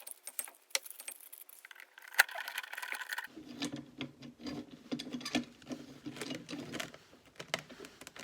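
Metal brake parts and hand tools clinking and rattling as they are handled and fitted, with a sharp clank about two seconds in. About three seconds in, a fuller rattling and scraping joins the clinks.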